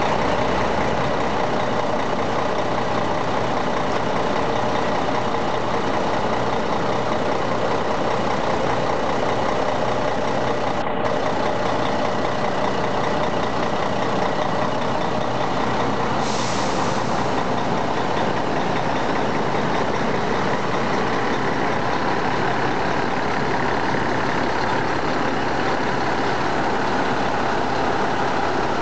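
Scania K124 coach's inline-six diesel engine running steadily, with a short hiss about two-thirds of the way through.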